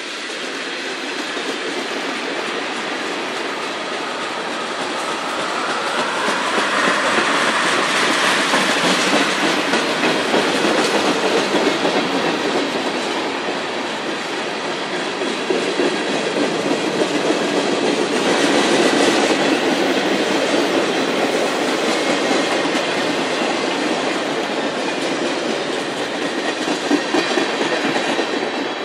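A train rolling past close by: continuous wheel-on-rail rumble and clatter, with a high whine that rises briefly about seven seconds in.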